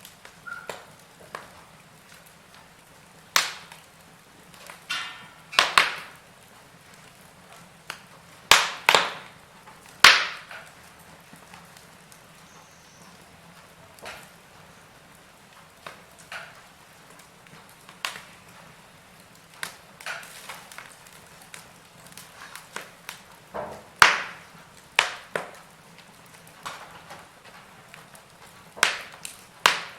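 Burning wood fire crackling, with sharp pops and snaps at irregular intervals, a few of them loud.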